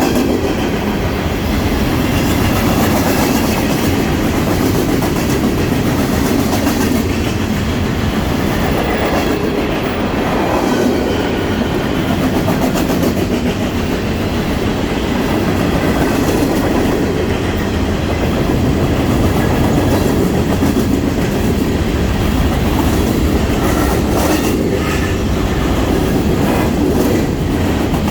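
CSX freight train rolling past, its steel wheels clacking over rail joints in a steady, loud rumble, with a run of sharper clacks near the end.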